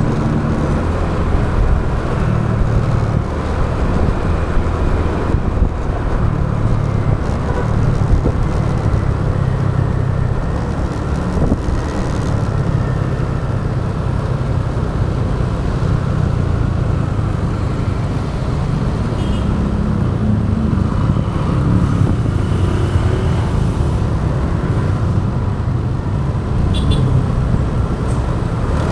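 Steady rumble of a motorbike being ridden along a road, with engine, tyre and wind noise and the sound of surrounding traffic.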